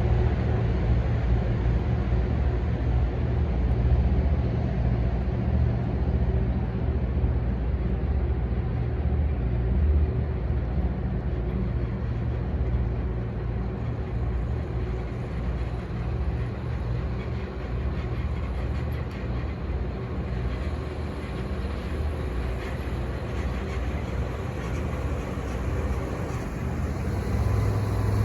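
Military tank's engine running in a steady low drone, loud at first, fading somewhat through the middle and growing louder again near the end as the tank moves.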